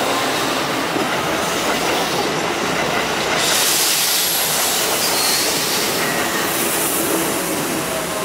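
Electric train running on the tracks through the station: a steady wash of wheel-on-rail noise with a few faint squealing tones, growing brighter about three and a half seconds in.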